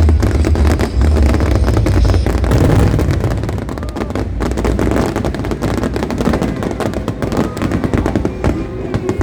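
Fireworks display firing in a rapid barrage of cracks and pops, like machine-gun fire, with heavy low booms for the first couple of seconds that give way to dense crackling.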